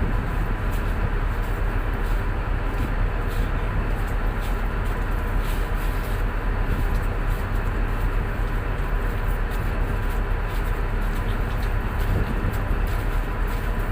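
Tugboat diesel engine running steadily: a constant low drone with a few steady tones, even in level throughout.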